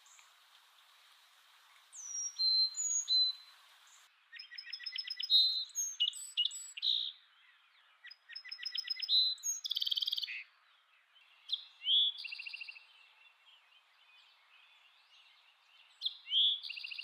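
Birds chirping and calling in separate bouts: short high chirps, rapid buzzy trills and whistled notes, with quiet stretches between them.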